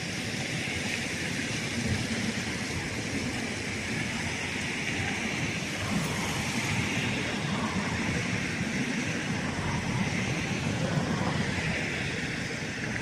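Steady drone of a loaded inland river cargo ship's engine as it passes, with an even hiss over it.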